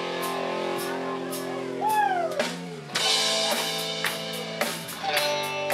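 Live country-rock band playing, with drum kit and electric guitar carrying sustained chords. About two seconds in, a note bends up and falls away; the band drops out briefly just before three seconds, then comes back in on the drums.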